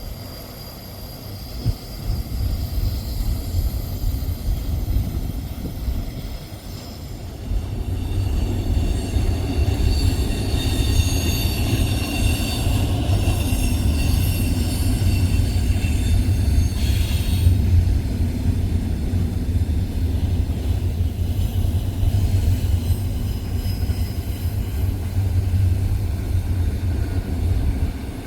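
Freight train rolling past with a low, steady rumble that grows louder about eight seconds in. High-pitched steel wheel squeal rings over it through the middle stretch.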